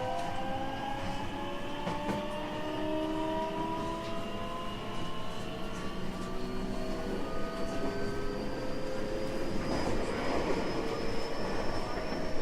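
Toyo Denki IGBT VVVF inverter and traction motors of a 225 series 5000-number electric train, heard from inside the car, whining in several tones that rise slowly in pitch as the train accelerates. Wheel and rail rumble grows louder near the end.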